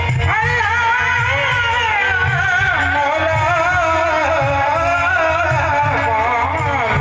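Qawwali music played loud through a sound system: a wavering sung melody over a steady, repeating drum beat.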